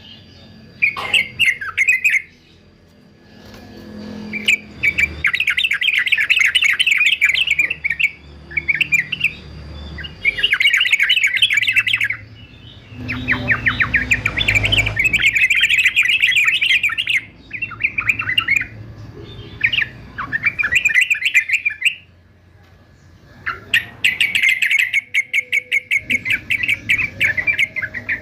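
Male yellow-vented bulbul singing in repeated bursts of rapid chattering notes, with short pauses between phrases.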